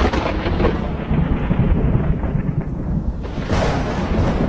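Loud, continuous rumbling and dragging roar from under a car, easing a little about three seconds in and swelling again near the end. The driver took it for the muffler having fallen off and being dragged along the road.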